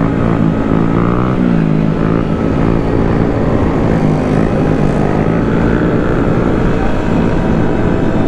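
Small motorcycle engines of a group of mini bikes running steadily, their pitch dipping and rising briefly about a second in, over low wind rumble on the microphone.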